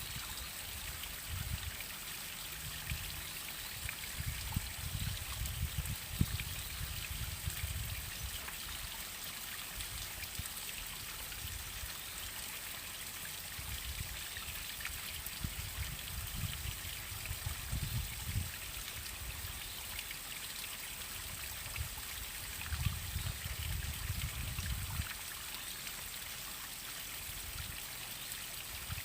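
Waterfall running: a steady, even rush and splash of falling water, with low rumbles coming and going.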